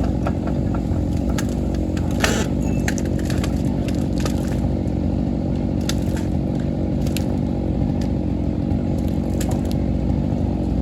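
A diesel machine engine running steadily under load, with scattered sharp cracks and clicks over it.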